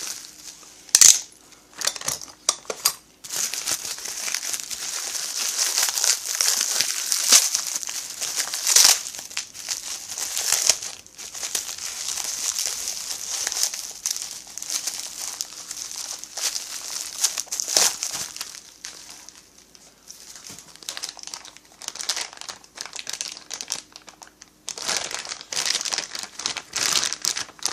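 Packaging crinkling and rustling in irregular bursts as kit parts are handled and unwrapped.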